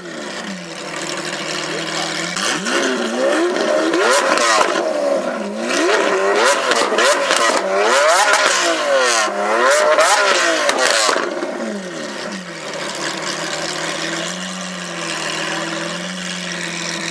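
Lamborghini Aventador V12 with Akrapovic exhausts being blipped in a series of quick revs, each rising and falling, with sharp pops and crackles from the exhaust during the middle revs. It then settles to a steady idle for the last few seconds.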